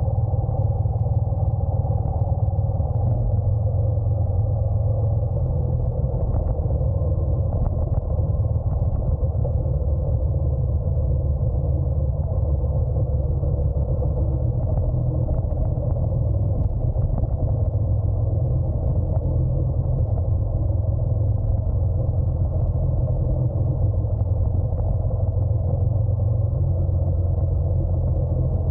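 Honda NC750X DCT motorcycle's parallel-twin engine running steadily under way, under a heavy, even low rumble.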